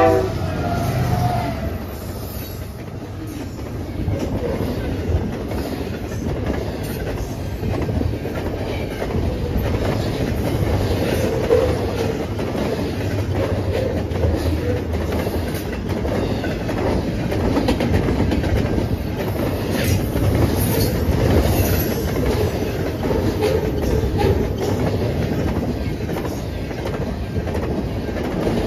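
CN double-stack intermodal freight train rolling past at close range: a steady rumble of wheels on rail with clickety-clack over the joints. The locomotives pass at the start, where the last of a horn blast cuts off.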